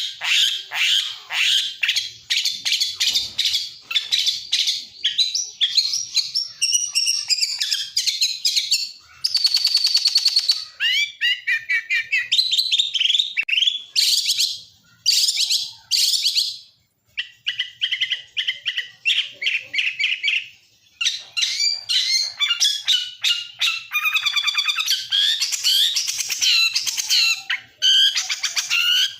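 Lacer songbird singing a rapid, ever-changing string of chirps, trills and whistles, its song filled with mimicked calls of other birds (isian). There is a buzzy sustained trill about nine seconds in and a few brief pauses.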